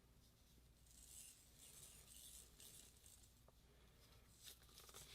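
Near silence: room tone with faint rustles and a few tiny clicks.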